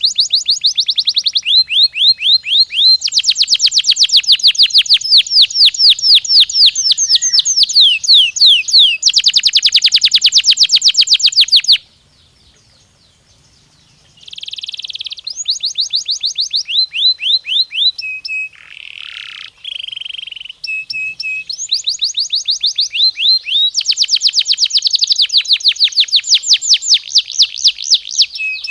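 Domestic canary singing: rapid rolling trills of repeated high sweeping notes, broken by a pause of about two seconds near the middle before the trills resume.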